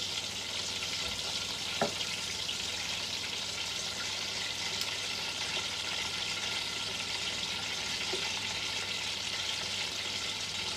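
Aubergine slices frying in hot oil in a stainless steel pan, a steady sizzle, with a single light click about two seconds in.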